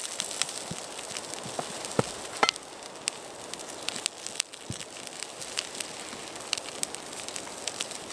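Campfire crackling, with many scattered sharp pops over a steady hiss. A couple of louder knocks come about two seconds in.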